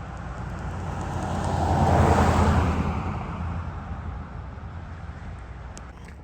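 A vehicle passing by, growing louder to a peak about two seconds in and then fading away, over a steady low hum.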